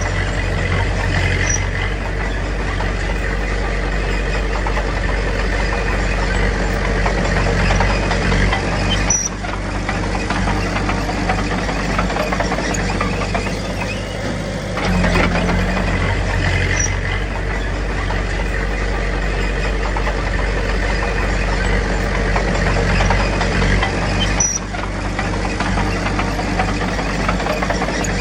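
Diesel engine of a Komatsu D21P bulldozer running steadily as it works. The engine note shifts briefly a few times.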